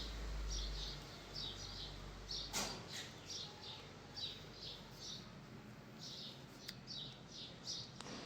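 Small birds chirping, short high-pitched chirps repeating irregularly several times a second, with a couple of faint clicks and a low rumble in the first second or so.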